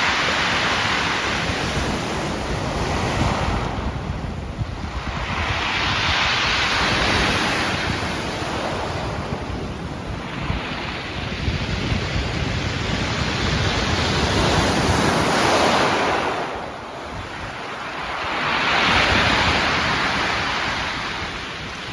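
Sea waves breaking and washing in, rising and falling in four slow surges about five seconds apart, with wind buffeting the microphone.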